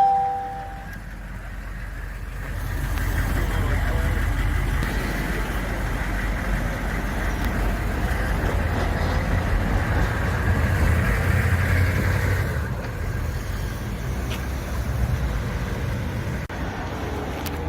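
A car engine and exhaust running with a low rumble that builds a couple of seconds in and eases off about twelve seconds in, with a brief sharp tone at the very start.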